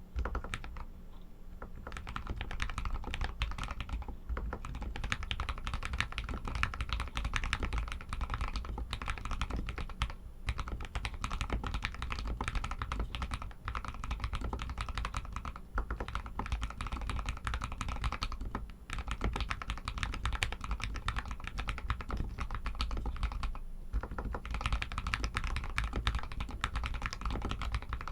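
Steady, fast typing on an RK61 mechanical keyboard with Outemu Red linear switches: a dense run of keystroke clicks and clacks, with brief pauses near the start, about two-thirds of the way in, and again a few seconds later.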